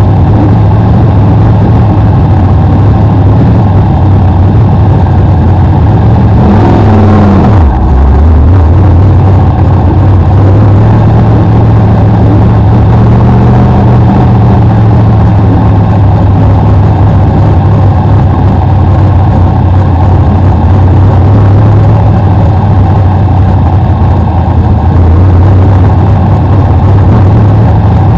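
BriSCA F1 stock car's V8 engine heard on-board, running loud and steady at race speed. About seven seconds in the revs drop sharply once, then pick back up.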